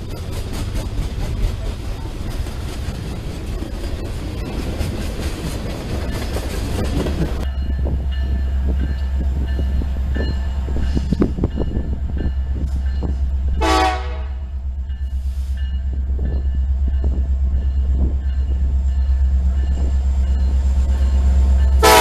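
Freight cars clattering and rattling past. Then comes the steady deep rumble of an approaching CN intermodal train led by EMD SD70M-2 and SD75I diesel locomotives. Its air horn sounds one short blast a little past halfway, and a louder blast as the locomotives come alongside near the end.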